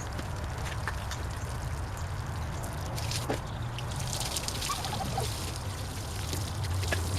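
Water pouring and trickling during a car wash, with scattered light clicks and splashes over a steady low hum.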